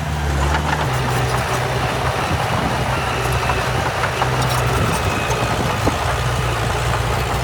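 Heavy diesel engine of earthmoving machinery running steadily, its note shifting about a second in, with scattered clicks and rattles over it.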